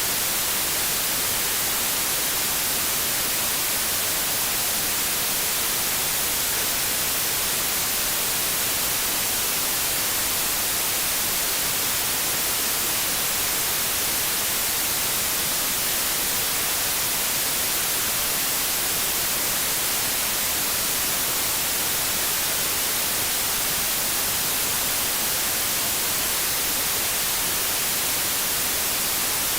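Television static: steady white noise with a bright, hissy tone, unchanging throughout.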